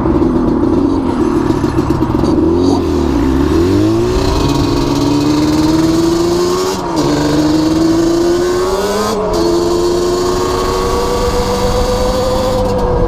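Small motorbike engine being ridden hard and pulling through the gears. Its pitch dips and climbs back about three seconds in, then rises and drops sharply at shifts about seven and nine seconds in. It holds high and steady toward the end, with wind rush over it.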